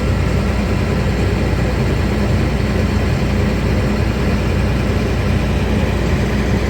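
Combine harvester's engine running steadily with a constant low hum.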